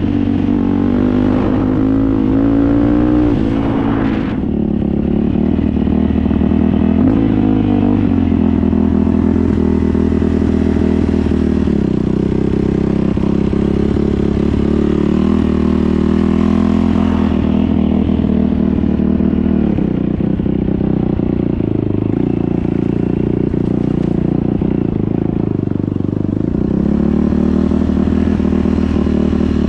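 Motorcycle engine running under way, its note rising and falling with the throttle several times.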